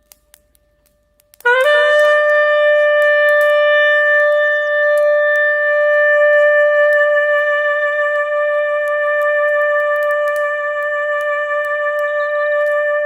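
A clarinet sounds one long held note that begins about a second and a half in with a slight upward scoop into pitch. Faint campfire crackles tick in the background.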